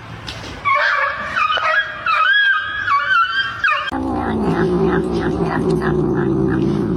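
A pet's high, drawn-out cry that wavers up and down in pitch for about three seconds. It is followed by a lower, steady pitched sound with a faint regular beat.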